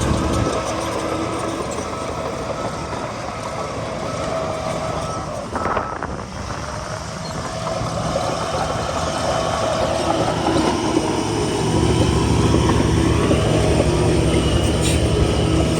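Heavy diesel engine of earthmoving machinery running under load, its note shifting and growing louder in the second half, with a short sharp noise about six seconds in.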